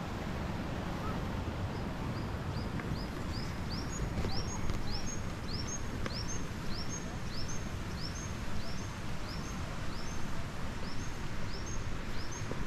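A bird repeating a short, rising high-pitched note about twice a second, starting a second or two in, over a steady low rumble of wind on the microphone.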